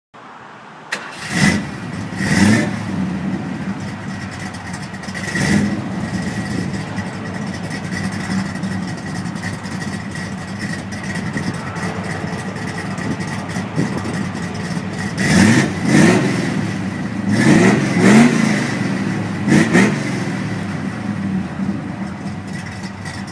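Car engine idling with a steady high whine over its hum, blipped a few times in the first seconds and revved several times in quick succession about two-thirds of the way through.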